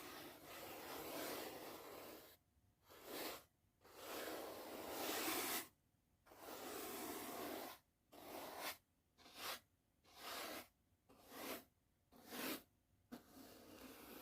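A soft brush stroking across the microphone in slow ASMR brushing strokes. It brushes continuously for about two seconds, then gives two long sweeps, then a run of short strokes about one a second with silent gaps between them.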